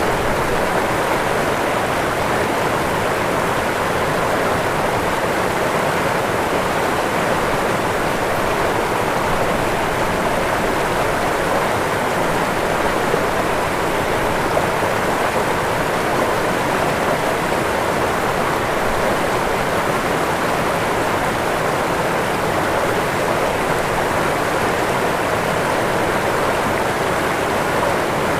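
Waterfall: falling water splashing in a steady, loud rush with no change.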